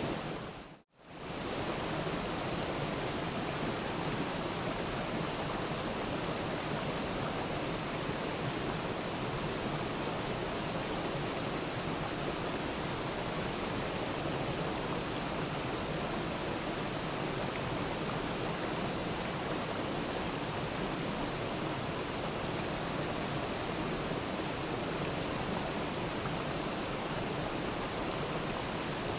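Waterfall: a steady rush of falling water. About a second in it fades out briefly to silence and comes straight back.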